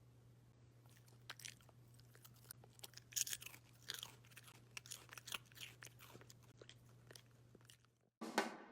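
A dachshund chewing food, with irregular crisp crunches that are loudest around three to four seconds in, over a faint steady hum. It cuts off near the end.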